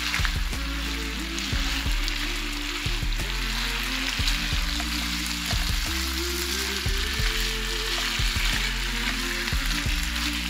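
Chicken pieces and diced vegetables sizzling steadily in a hot frying pan as they are stirred with a silicone spatula.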